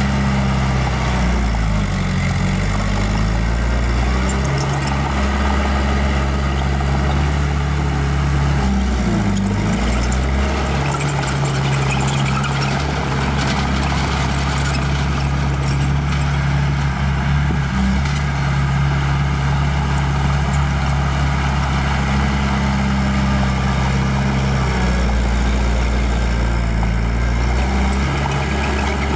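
Small bulldozer's diesel engine running steadily and loudly, its pitch dipping briefly and recovering twice, about two seconds in and again near ten seconds.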